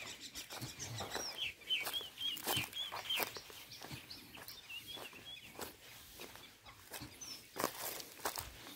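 Birds calling: a quick run of about eight short rising chirps a little over a second in, and a few higher notes near the end, over scattered crunching steps on dry ground.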